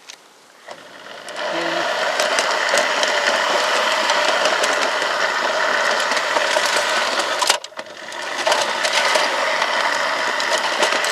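Model garden-railway locomotive running along the track, a steady motor whir with rattling wheel clatter. It cuts out abruptly about seven and a half seconds in, then quickly picks up again.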